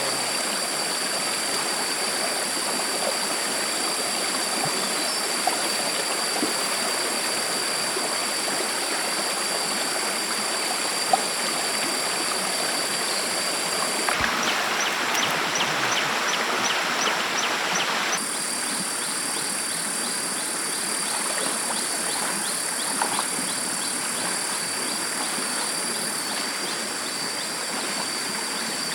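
Stream water flowing steadily. Over it runs a steady high-pitched tone, which about halfway through briefly turns into a rapid ticking of about three ticks a second.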